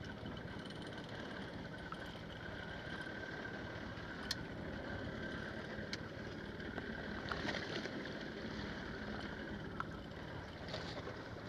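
Steady drone of a boat's engine with water noise, broken by two sharp clicks about four and six seconds in.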